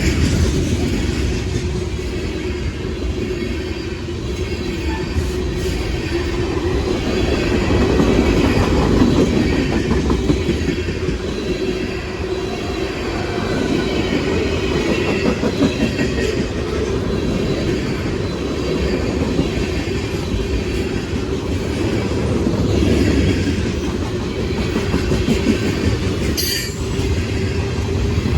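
Norfolk Southern manifest freight train's cars rolling past: a steady rumble of steel wheels on rail with rapid clicking over the rail joints, and a brief high-pitched sound near the end.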